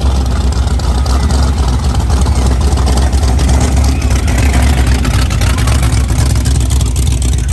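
A car engine running steadily at idle, low-pitched, with voices in the background.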